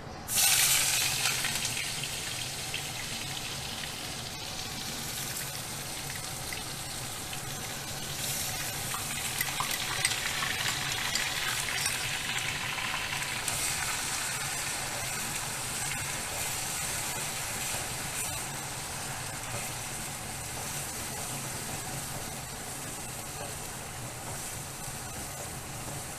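Onion paste dropped into hot oil in a kadai with whole spices: a sudden loud sizzle just after the start, settling into a steady frying hiss that swells again for a while midway.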